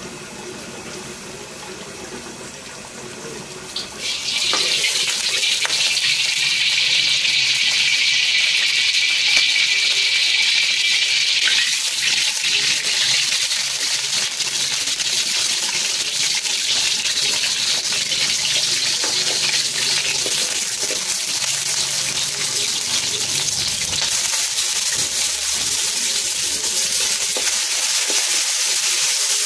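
Egg and meat sizzling in hot oil in a wok over a gas burner: the sizzle starts suddenly about four seconds in and stays loud and steady.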